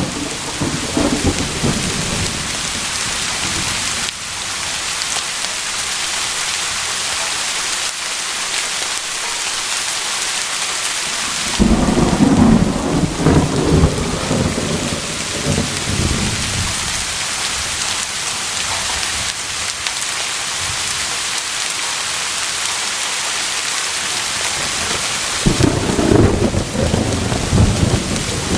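Steady rain falling in a thunderstorm, with low rolls of thunder rumbling in three times: at the very start, for a few seconds around the middle, and again near the end.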